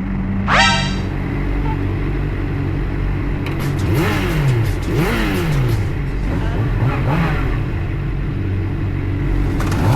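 Motorcycle engines running steadily. There is a quick rev about half a second in, then several revs rising and falling between about four and seven seconds in.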